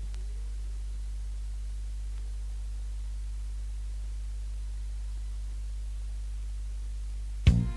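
Steady low hum in the silent gap between two songs, with no music playing; music starts suddenly near the end.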